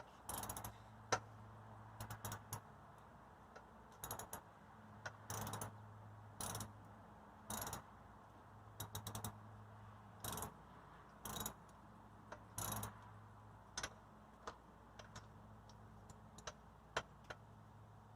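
Hand ratchet wrench clicking in short strokes, about one a second at its busiest, as bolts are tightened. A steady low hum runs underneath.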